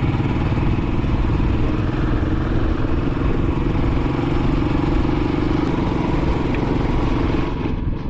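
Royal Enfield Classic 500's single-cylinder engine running steadily while riding, with a constant rush of noise over it. Near the end the sound drops and the rush thins out.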